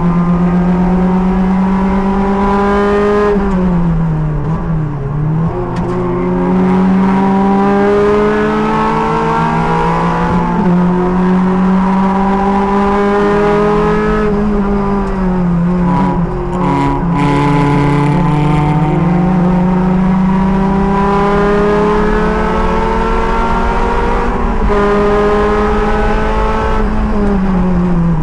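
Race car engine heard from the driver's helmet camera, running at high revs under load with its pitch climbing slowly, then dropping sharply three times as the car brakes and downshifts for corners: about 4, 15 and 27 seconds in.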